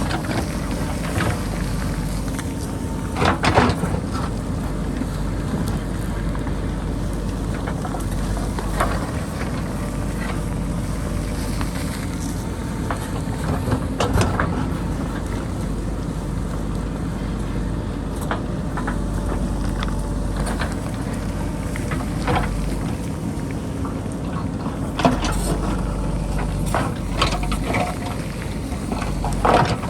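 JCB backhoe loader's diesel engine running steadily under load while it digs into the hillside, with a few sharp knocks and scrapes of the bucket on rock and dirt.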